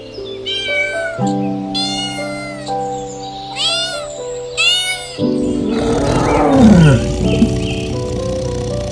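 A cat meowing four times, each meow rising then falling in pitch, over background music. About five seconds in comes a louder, rougher animal call that falls in pitch.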